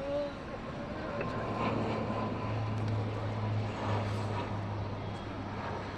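Turboprop airliner passing, its engines and propellers giving a steady low drone over a rushing noise that swells about a second in, is loudest midway and eases off toward the end.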